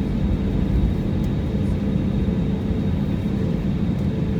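Airliner engines running, heard from inside the passenger cabin as a steady loud drone with a low rumble and a faint hum.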